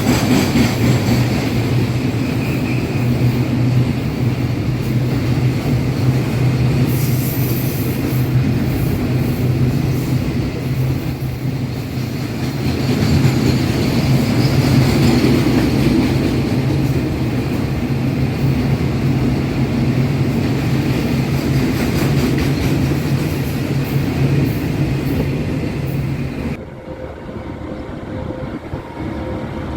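A train running close by, with a steady heavy drone and scattered clicks of wheels over rail joints. About 26 seconds in it cuts off abruptly to a quieter steady hum with a faint tone.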